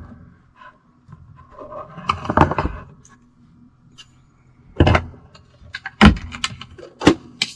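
Handling clatter and sharp knocks of things being picked up and set down while a coffee maker is being readied: a rustling, clattering stretch about two seconds in, then three separate sharp knocks, one about every second, near the end.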